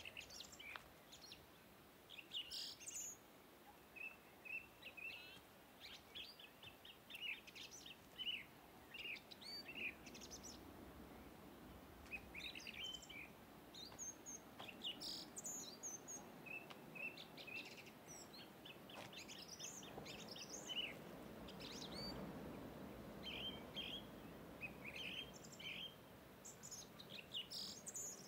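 Small birds chirping and calling, many short high notes in quick runs, faint against a low background rush that swells past the middle.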